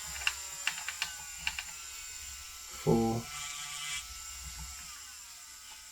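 Electric nail drill's small motor whining steadily, its pitch sliding lower as the speed is turned down. A few sharp clicks come in the first two seconds.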